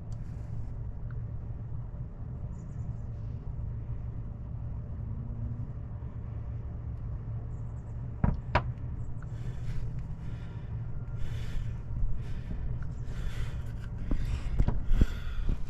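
Steady low rumble, with a couple of sharp knocks about eight seconds in and then irregular scraping and rustling that grows louder toward the end, as someone moves about inside a wooden chimney chase.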